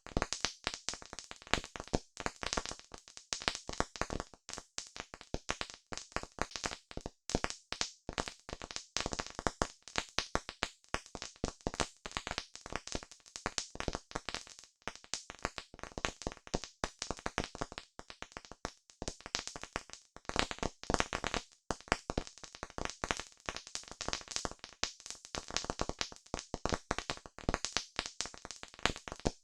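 Wood fire crackling: dense, irregular snaps and pops, several a second.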